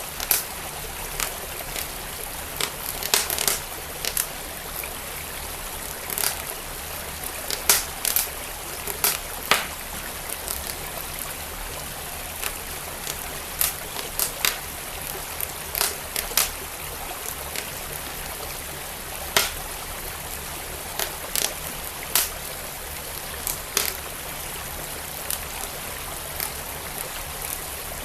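Wood fire in a fireplace crackling, with sharp irregular pops and snaps, over the steady rush of a flowing stream.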